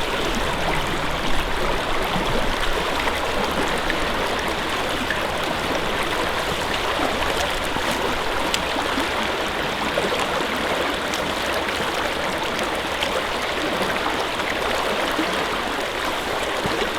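Creek water running over rocks: a steady, even rush.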